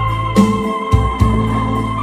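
Electronic organ playing a slow pop melody: a lead voice with vibrato holds a long note over sustained bass notes, with a steady beat from the organ's rhythm accompaniment.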